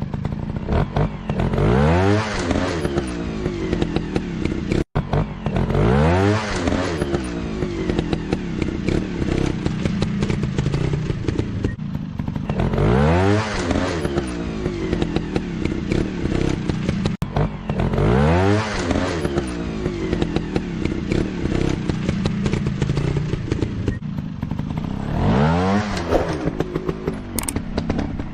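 Trail motorcycle engines running and revving, the pitch rising in a burst about every five to six seconds, with some clatter between.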